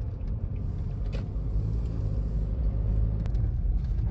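A car driving, with a steady low rumble of engine and road noise and a light click about three seconds in.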